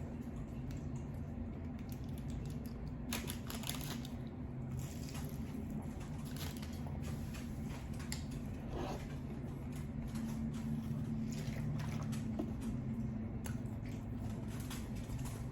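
Wet squishing and chewing mouth sounds of someone eating lo mein noodles, with scattered small clicks, over a steady low hum.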